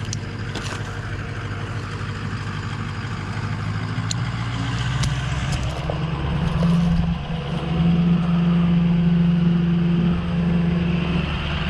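Truck engine running, speeding up about four seconds in and then held at a higher steady speed.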